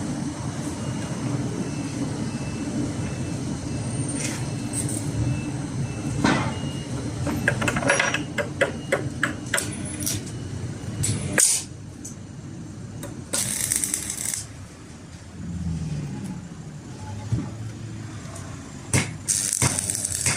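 Blacksmith's workshop sounds: a machine drones steadily and cuts off suddenly about eleven seconds in, with a run of sharp metal strikes and clanks just before it stops. Later come two short bursts of hiss.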